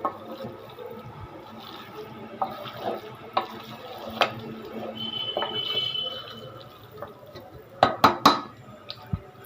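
Kitchen vessels and utensils clinking and knocking, with water running for about a second midway. Three sharp knocks close together near the end are the loudest sounds.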